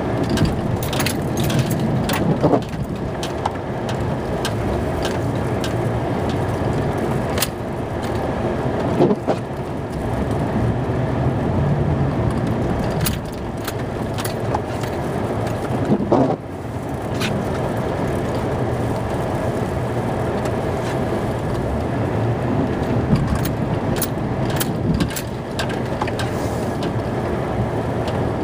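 Snow-plow vehicle's engine running steadily while plowing a driveway, with scattered sharp knocks and clunks every few seconds.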